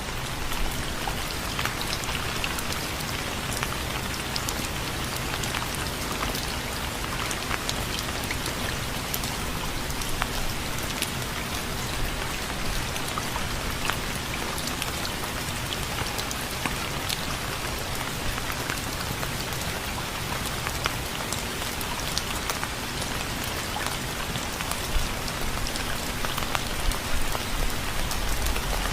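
Steady rain: a continuous hiss with many single drops ticking sharply on a surface, a few of them louder near the end.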